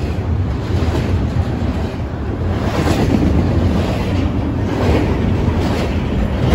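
Double-stack intermodal container train passing at close range: the wheels of the loaded well cars make a steady, heavy rumble on the rails.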